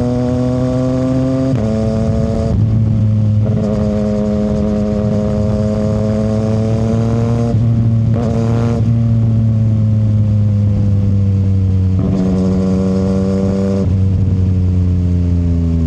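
CFMoto 675 SR-R's three-cylinder engine through an aftermarket short exhaust, running under way with the revs climbing slowly and the pitch stepping at several gear changes. A brief higher rev comes about halfway through.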